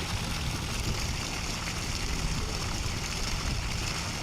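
John Deere tractor engine running steadily while a Shaktiman rotavator churns water and mud in a flooded paddy field during puddling.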